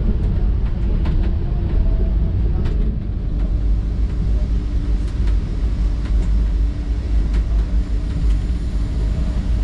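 Interior of a Centovalli Railway electric panoramic train running at about 39 km/h: a steady rumble of wheels on rail, with faint scattered clicks. A steady low tone joins about three seconds in.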